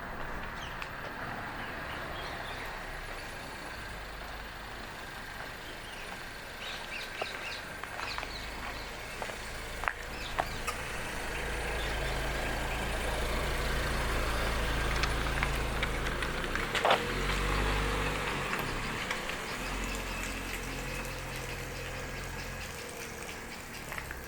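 A motor vehicle's engine rumbling close by, building up, loudest in the middle and then fading, with a sharp knock about two-thirds of the way in. Birds chirp faintly above it.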